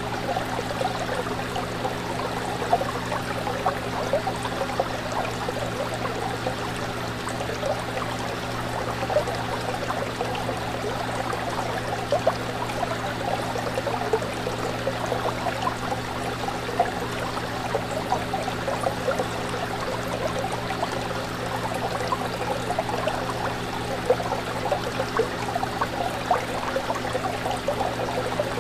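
Fish tank water bubbling and trickling steadily, with frequent small splashes, over a steady low hum.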